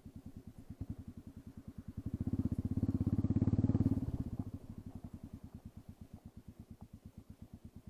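Royal Enfield Classic 350's single-cylinder engine idling with its end muffler removed, each exhaust pulse distinct. It is revved up briefly about two seconds in and drops back to idle about four seconds in.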